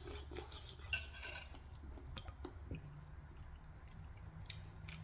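Faint clinks and clicks of tableware, a spoon against a bowl, with one slightly ringing clink about a second in. A faint low hum comes in past the middle.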